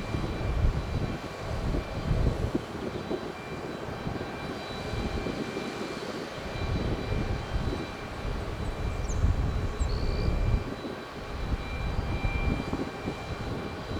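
Jet aircraft engines running, a deep rumble that swells and eases, with a thin steady whine above it.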